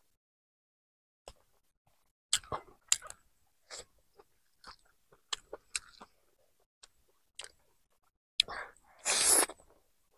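Close-miked mouth sounds of a person eating rice and chicken curry by hand: scattered wet chewing smacks and clicks, then a loud breathy rush of air about a second long near the end.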